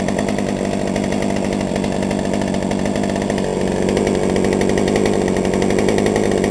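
Two-stroke chainsaw engine running steadily on its freshly rebuilt carburetor, a little louder from about halfway through, then cut off abruptly.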